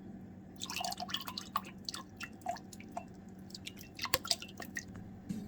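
Liquid dripping: irregular drops and small pops, about a dozen, some with a brief pitched blip, over a steady low hum.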